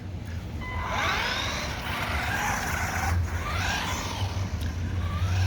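Small brushed electric motor of a 1/16-scale SG-1603 RC drift truck whining, its pitch rising and falling over and over as the truck speeds up and slows through its drifts.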